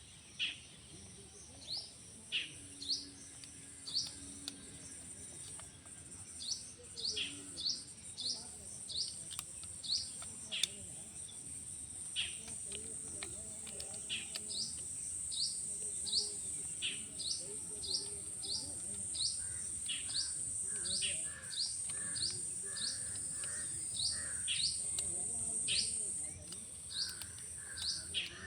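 A small bird calling repeatedly in short, sharp chirps, one or two a second, over a steady high-pitched insect drone.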